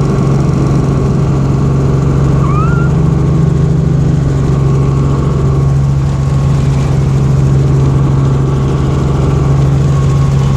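Helicopter running: a loud, steady, low engine-and-rotor drone.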